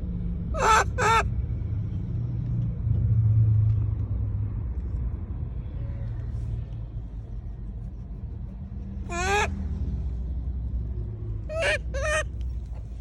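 A monkey's short, high, wavering calls: a pair about a second in, a single call about two-thirds of the way through, and another pair near the end, over a steady low rumble.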